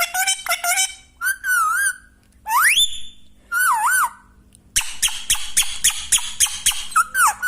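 A parrot whistling and squawking: short wavering whistles, one call gliding steeply up and held, and a run of rapid repeated chattering calls in the second half.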